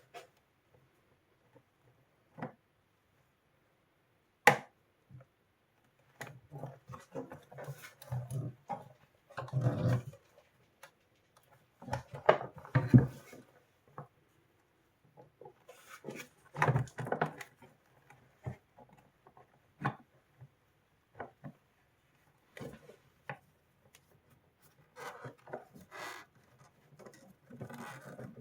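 Irregular clicks, taps and rubbing from parts and tools being handled during a repair, with a sharp click about four and a half seconds in and busier stretches of handling in between.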